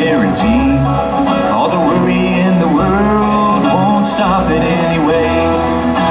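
Live acoustic bluegrass music, with banjo and guitar playing a steady tune.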